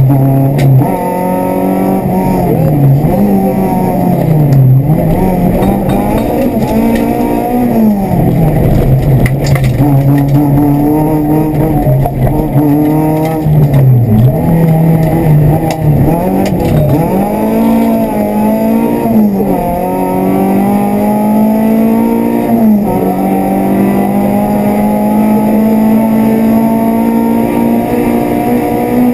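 Renault Clio rally car's engine heard from inside the cabin, driven hard: the engine note climbs and drops back sharply again and again, then holds higher and climbs slowly near the end.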